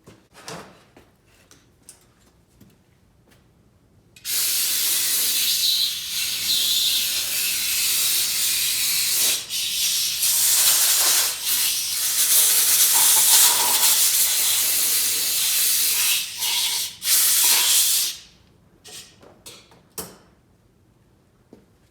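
Pressurised gas hissing from a nozzle: a loud, even hiss that starts about four seconds in and lasts about fourteen seconds, broken briefly a few times. Small clicks and taps come before and after it.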